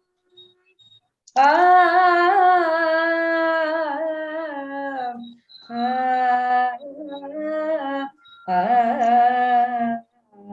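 A woman's solo voice singing long, wordless held notes with gliding ornaments in Raag Desh, in three phrases. It is an unaccompanied opening alaap before the words of the bhajan.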